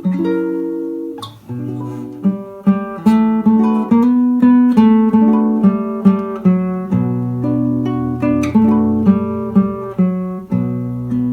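Solo acoustic guitar playing a slow piece: a melody of single plucked notes, each fading after it is struck, over low bass notes that ring on underneath.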